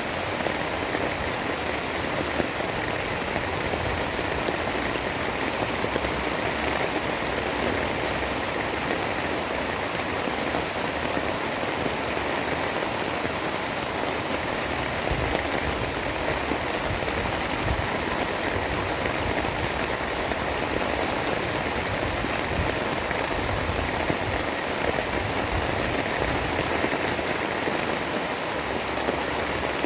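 Steady, continuous rain hiss with a low rumble underneath, unchanging throughout.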